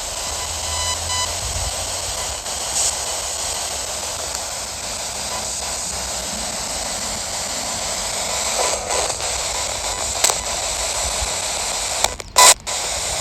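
SBox spirit box sweeping the FM band: steady radio static hiss, broken by brief snippets of station audio as it jumps from frequency to frequency, with a couple of sudden cut-outs and a loud blip near the end.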